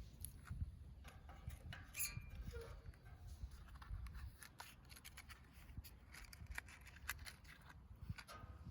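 Wood campfire crackling faintly, with irregular sharp pops and snaps over a low rumble.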